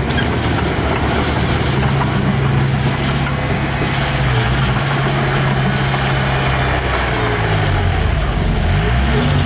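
Diesel engine of earthmoving machinery running steadily. Its engine speed dips and rises a few times near the end.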